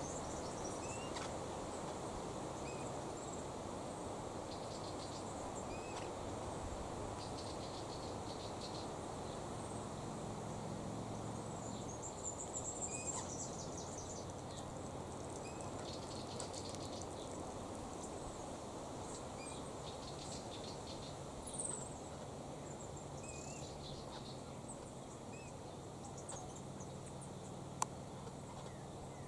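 Garden ambience: a steady low background hum with insects chirring and scattered short bird chirps.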